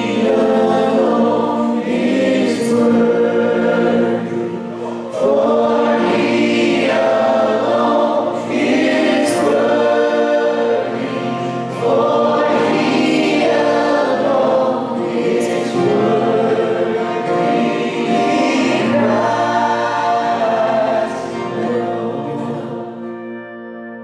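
Choir singing a Christmas hymn with music, in repeated phrases of about three seconds each, fading near the end.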